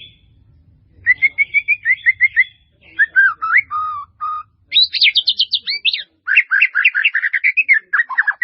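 A bird singing: a long, varied song of rapid repeated chirps and trills in several phrases, starting about a second in.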